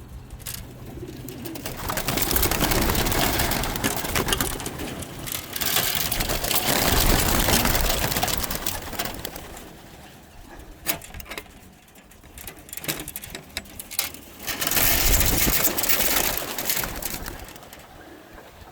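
A flock of racing pigeons at their release: cooing, and the noisy clatter of many wings swelling and fading in waves of a few seconds each, with a few sharp clicks.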